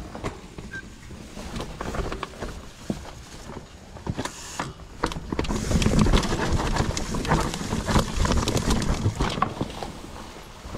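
Mountain bike riding over a rough dirt trail: tyres crunching on the ground and the bike rattling with many irregular sharp knocks, busier and louder from about four seconds in.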